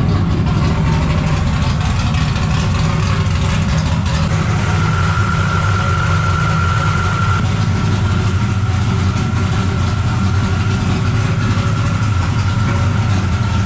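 Shop truck's engine running loud and steady, with a thin high whine joining in about four seconds in.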